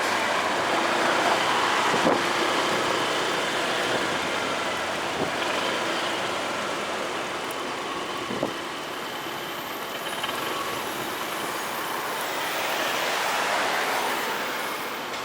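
Steady rushing road and wind noise of riding a motorcycle in traffic, swelling briefly near the end.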